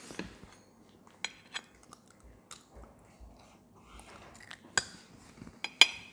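Children chewing and biting fried battered calamari, with a metal spoon clicking against the plate several times, the loudest clink a little before the end.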